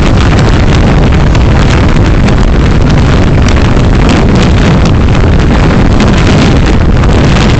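Car driving recorded through a dashcam microphone: a loud, steady rumble and hiss of road and wind noise, with constant crackling.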